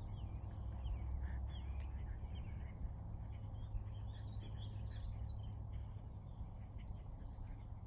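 Songbirds chirping and calling in short, quick phrases, many notes through the whole stretch, over a steady low rumble.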